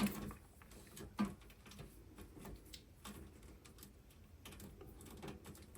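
Scattered light clicks and taps from handling the parts of a small-form-factor PC case.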